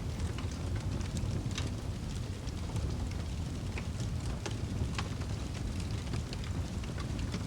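Fireplace fire crackling: a steady low rumble with scattered sharp pops every second or so.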